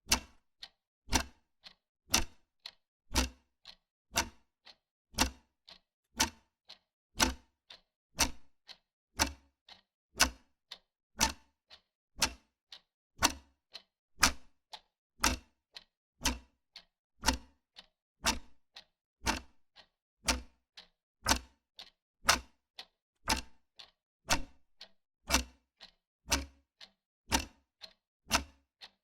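Wall clock ticking steadily, one sharp tick about every second with a softer click between each.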